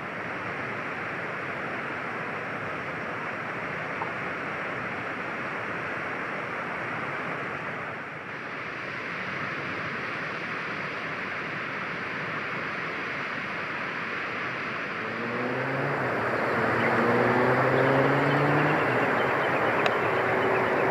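Steady rushing noise. About fifteen seconds in, a motor vehicle's engine comes in and grows louder, its pitch rising in short repeated climbs.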